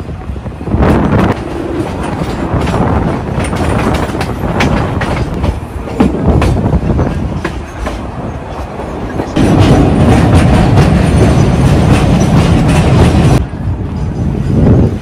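Ferrocarril de Sóller narrow-gauge train running with its wheels clacking over the rail joints under a steady rumble. About two thirds of the way through it grows louder and heavier for a few seconds.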